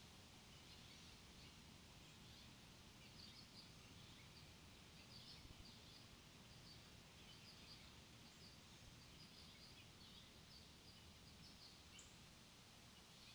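Faint birds chirping, many short scattered chirps, over a steady low background hiss.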